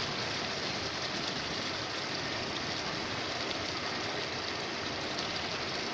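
Mutton karahi sizzling steadily in oil in a non-stick wok over a high flame, with a fine even crackle as the meat is fried down until its water dries off.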